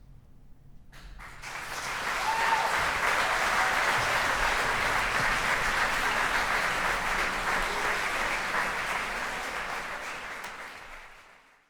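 Audience applauding at the end of a live performance. It starts about a second in, swells quickly, holds steady, then fades away near the end.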